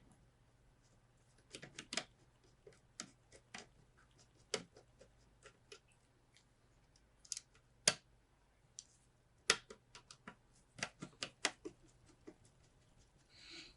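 Irregular small clicks and taps of hard computer parts being handled and fitted together during a PC build, with a short rustle near the end.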